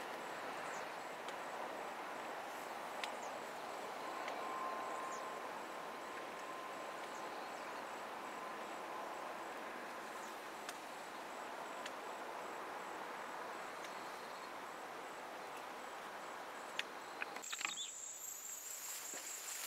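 Faint, steady rumble of a distant passenger train running away along the line, with insects chirping in a high, pulsing trill. Near the end the rumble drops away and the insect trill gets louder.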